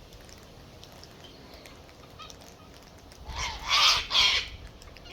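Backyard poultry calling: three loud, harsh calls in quick succession in the last two seconds, over a low wind rumble on the microphone.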